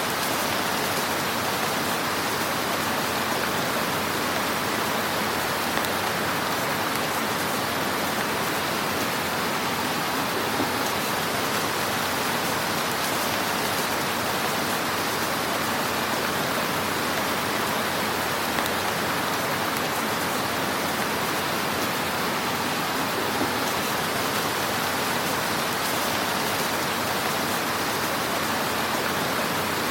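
Wood fire burning in a fireplace: a steady hiss of flames with dense faint crackling and an occasional slightly louder pop.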